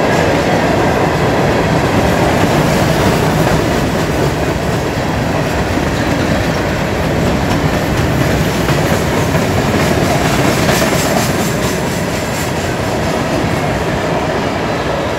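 Loaded CSX hopper cars of a freight train rolling past at close range: steel wheels on the rails making a steady, loud rumble.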